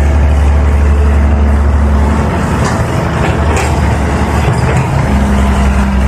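Diesel engine of a tracked excavator running steadily under work. About two seconds in its hum shifts and short hissing sounds come through.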